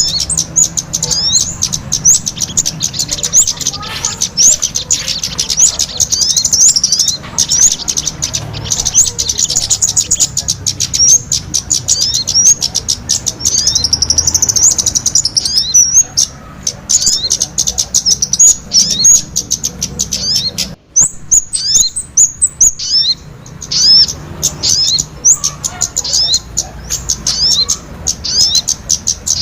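Small-bird lure call (suara pikat): dense, rapid, high-pitched chirping of small birds in quick overlapping runs, with a brief break about 21 seconds in.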